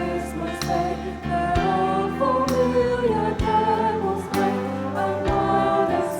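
A choir singing held notes over instrumental accompaniment, with a percussive beat about once a second.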